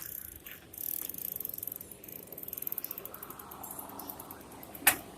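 Bicycle freewheel hub ticking rapidly as the rider coasts, then a single sharp click near the end.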